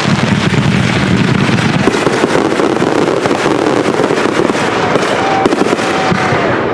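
Consumer fireworks going off in a dense, continuous barrage of rapid bangs and crackling.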